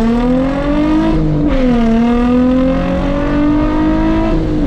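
Nissan 350Z's 3.5-litre V6 with a straight-piped exhaust, at full throttle in a drag run. The revs climb, drop with an upshift about a second in, then climb again to a second upshift at the very end.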